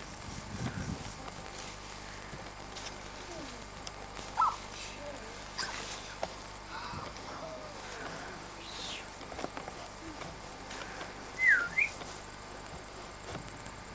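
Insects chirring in a steady, high-pitched, finely pulsing drone, typical of field crickets or grasshoppers in summer grass. A few short whistled chirps cut in, the loudest about four seconds in and a pair near the end.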